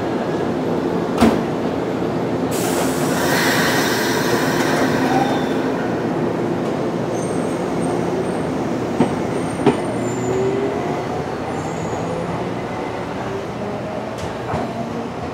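Nankai electric commuter train in a station, its steady hum running throughout. A loud hiss of air comes about two and a half seconds in. Then rising tones and a few clanks follow as a train pulls out of the platform.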